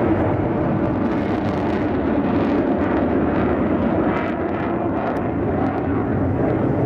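Fighter jet's engines roaring steadily as it flies a display, a loud, even rush of jet noise without distinct tones.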